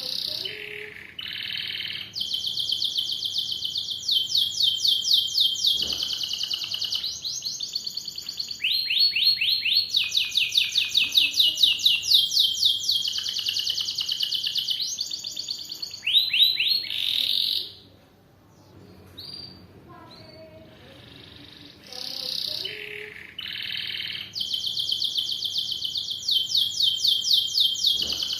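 Domestic canary singing a long song of rapid trilled phrases, each a fast run of the same note repeated, changing from one trill to the next, with a brief lull about two-thirds of the way through.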